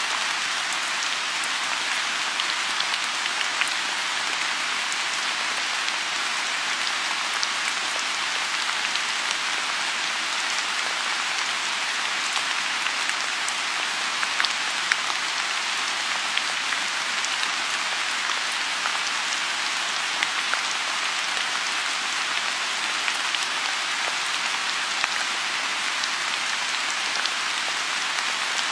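Steady rain falling on a lotus pond: a dense, even hiss with scattered sharper drop ticks.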